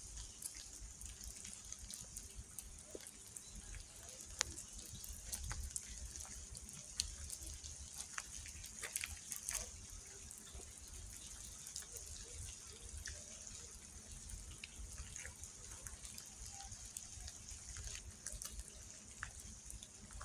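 Rain falling steadily: a soft hiss with many scattered drops tapping close by, over a low rumble.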